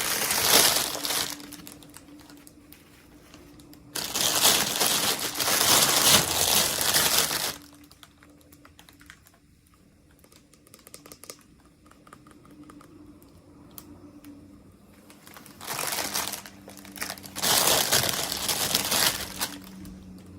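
Plastic packaging crinkling as a toy package is unwrapped by hand. It comes in four loud bursts, with light clicks and handling noises between them.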